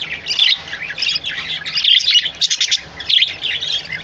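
A group of small cage birds chirping and twittering continuously, many short overlapping calls at once.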